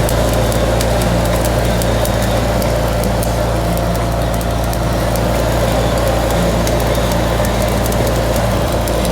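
Engine-driven welding generator running steadily at a constant speed, with irregular sharp ticks and crackles over the hum.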